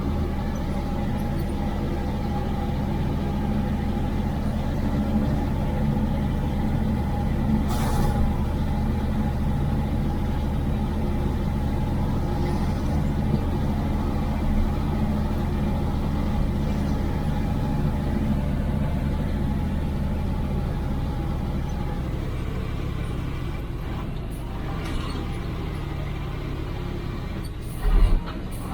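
IFA L60 4x4 truck's six-cylinder diesel engine running steadily, heard from inside the cab. One sharp knock comes about eight seconds in, and a couple of heavy thumps near the end.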